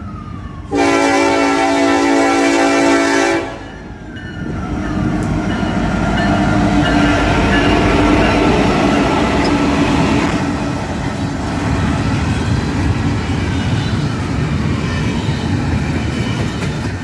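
A Union Pacific diesel locomotive sounds its horn in one loud blast of about three seconds, a few notes sounding together. Then the locomotive and its double-stack container train run by close, a steady rumble and rattle of wheels on rail. A siren wails faintly behind it, rising and falling near the start and again later.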